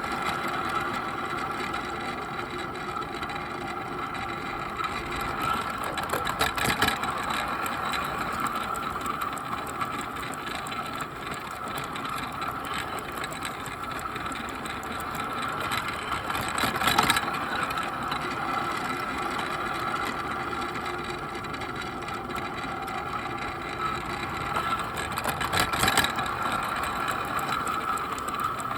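The small electric motor and gears of a Bachmann Percy garden-railway locomotive running with a steady high whine as the train rolls along the track. Three louder clatters come roughly nine seconds apart as the wheels run over track joints or points.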